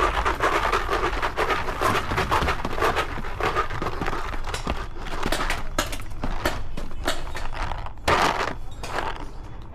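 Paintball markers firing in a skirmish: irregular sharp pops, some in quick runs, over a steady low rumble.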